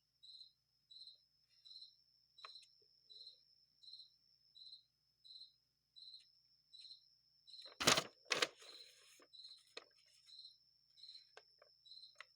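A cricket chirping steadily, a short chirp about every 0.7 seconds. About eight seconds in, two sharp knocks close together cut in, with a few faint clicks after them.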